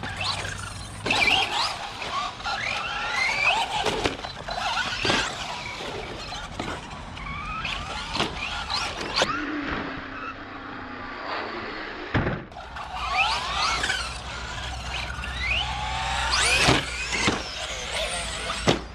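Electric RC short course truck with a brushless motor being driven hard on concrete: a high motor whine rising and falling with the throttle, squeals, and scattered knocks from jumps and landings.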